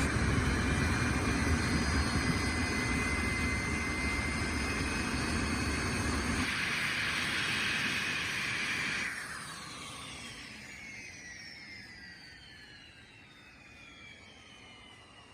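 Jet engine of a jet-powered drag vehicle running loud at full thrust. The deep rumble drops out about six seconds in, and from about nine seconds the sound fades while its whine falls steadily in pitch.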